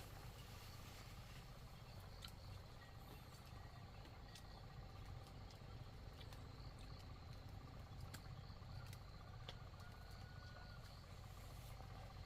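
Faint outdoor ambience: a steady insect drone over a low rumble, with scattered light clicks and a brief whistle about ten seconds in.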